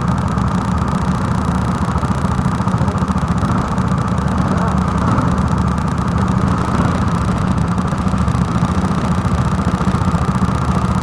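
Go-kart engine running steadily at idle, an even drone with no revving.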